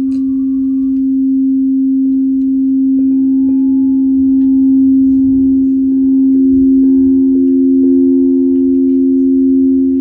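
Crystal singing bowls ringing with a steady, sustained tone; a second, higher-pitched bowl joins about two to three seconds in and swells, so the two notes sound together.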